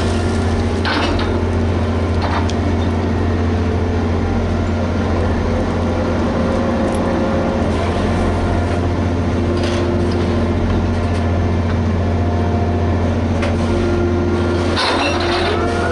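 Liebherr HS8200 dragline's diesel engine running at a steady low drone, with a few short knocks about a second in, near ten seconds and near the end.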